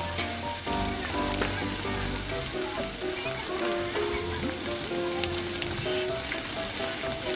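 Food sizzling on a hot grill over the fire pit: a steady fine hiss with small crackles. A slow background melody plays over it.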